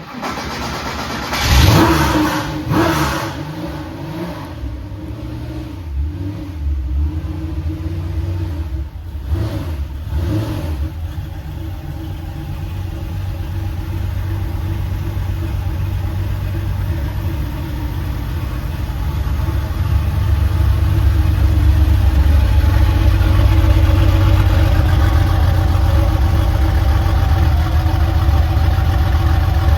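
1985 Porsche 911's air-cooled flat-six engine catching on a cold start, a start that is called nasty. It is revved hard once about two seconds in and blipped a few more times, then settles into a steady idle that grows a little louder.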